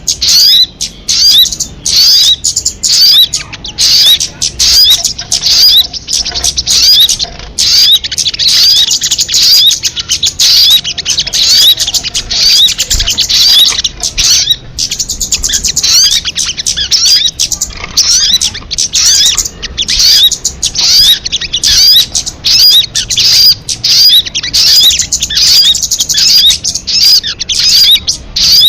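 Sogon songbird singing a fast, unbroken stream of high chirps and quick twittering notes, each note a short sweep in pitch.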